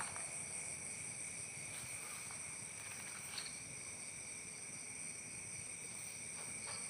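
Steady chorus of insects shrilling in several constant high tones, with faint rustling and a couple of soft clicks.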